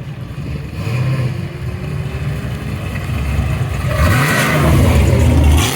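A car engine revving as the car accelerates past, growing louder over the last two seconds, with a brief sharp drop in sound near the end.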